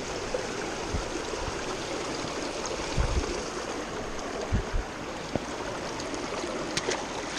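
Creek water running in a steady rushing trickle, with a few soft low thumps scattered through it.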